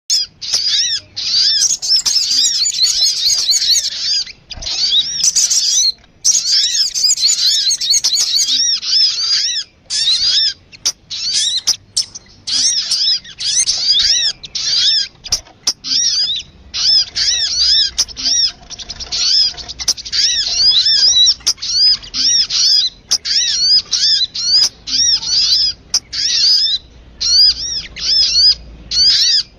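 Sogun bird lure call: a fast, busy run of high chirping notes, each rising and falling, several a second, with only brief pauses.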